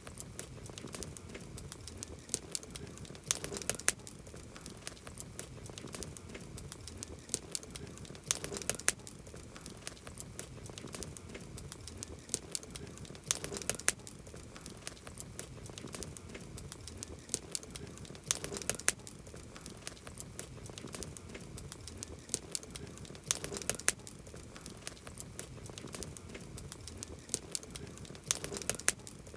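Campfire burning, the wood crackling and popping over a low hiss, with bursts of sharp pops about every five seconds.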